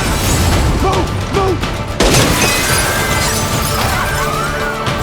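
Film score playing over action sound effects, with a sudden loud crash and shattering about two seconds in.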